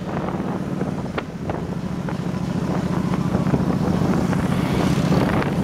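Motorbike engine running steadily while riding, with wind rushing over the microphone; it gets a little louder in the second half.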